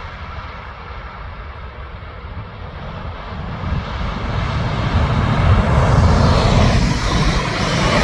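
A train approaching at speed: a low rumble with a rushing noise that builds from about three seconds in and is loudest near the end.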